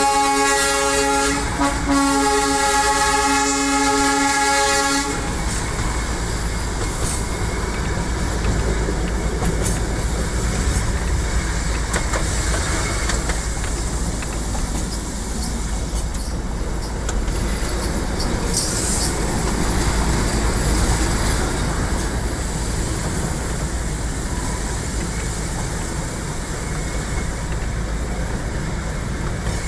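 Darjeeling Himalayan Railway toy train sounding its horn in two long blasts over the first five seconds, then running along with a steady rumble and rattle of the moving carriage.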